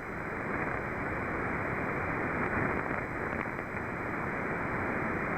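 Shortwave receiver hiss and band static on 20 m single sideband, a steady noise cut off above about 2.5 kHz by the receiver's SSB filter, heard between contest calls.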